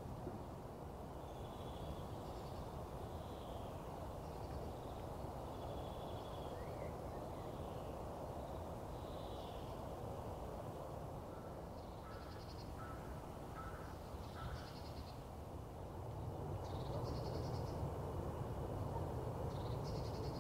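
Woodland birds calling over a steady low background noise: short whistled notes at first, then a few rapid trilled calls and a brief run of evenly spaced notes in the second half.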